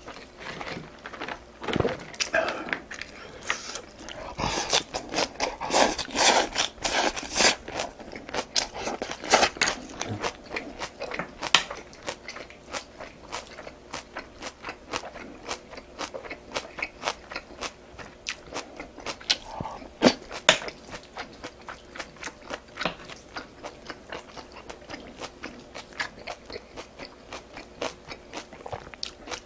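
A person biting and chewing food, a rapid, irregular stream of small clicks, busiest about four to ten seconds in and briefly again about twenty seconds in.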